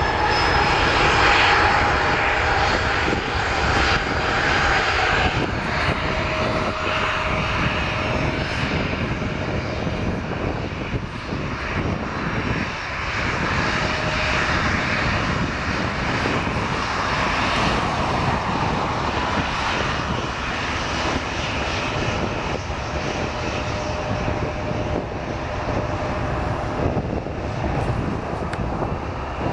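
Jet airliner engines running, a loud steady rush of noise with a faint steady whine through it.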